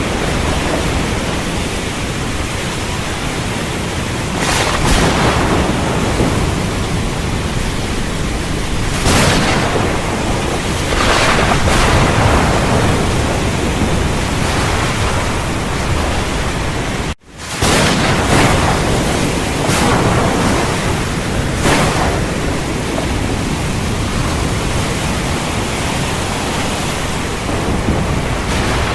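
Heavy rain falling steadily, with thunder cracking out over it several times. The sound drops out for a split second about two-thirds of the way through.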